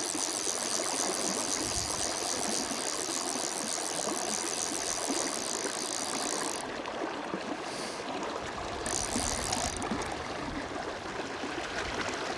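A Stillwater PL-C fly reel clicking on its ratchet as a hooked fish is played. Behind it is the steady rush of the river. The clicking runs through the first half, then stops and starts.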